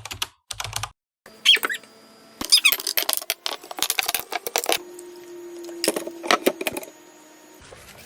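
Irregular clusters of sharp clicks, clatters and rattles, as of small hard objects being handled, over a faint steady hum.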